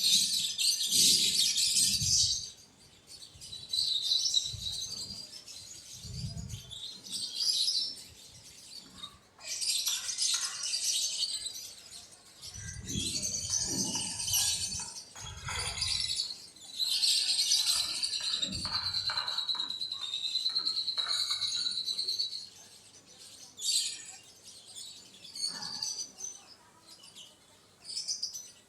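Birds chirping in repeated bursts, with a wavering high call that runs for several seconds past the middle, and some low thuds in between.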